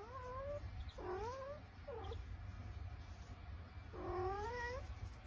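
A cat making four drawn-out calls that rise in pitch, the last the longest, over a steady low hum.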